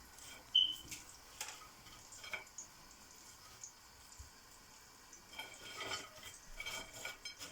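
Faint clinks and taps of serving utensils and food against plates, with a short ringing clink about half a second in and a run of clatters near the end.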